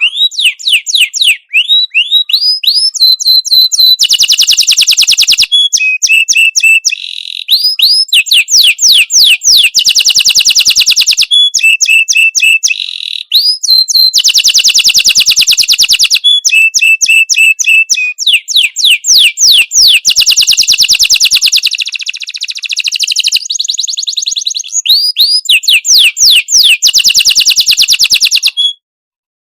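A songbird singing loud phrases of fast, repeated trilled notes and quick rising whistles, with short pauses between phrases. The song cuts off suddenly near the end.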